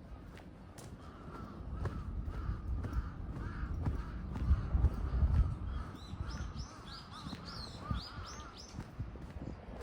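Crows cawing repeatedly, with small birds chirping quickly in the second half. A low rumble swells and fades in the middle.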